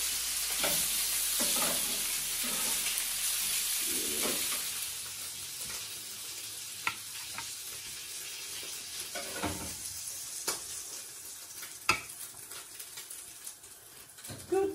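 Burger patties sizzling as they fry in oil in a grill pan, the sizzle loudest for the first few seconds and then fading. A few sharp clicks or knocks later on, the loudest one near the end.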